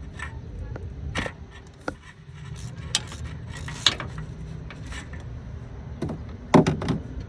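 Metal hand tools clinking: a ratchet, sockets and extensions handled and knocking together in scattered clicks, with a louder clatter about six and a half seconds in.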